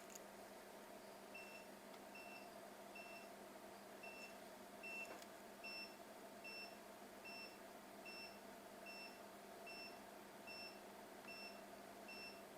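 Short, high electronic beeps from bench test equipment, repeating evenly about every three-quarters of a second, starting about a second in, over a faint steady electrical hum.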